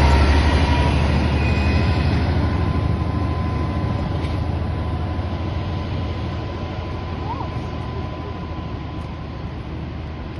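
Diesel-hauled train of passenger coaches passing close and then drawing away, its low rumble fading steadily.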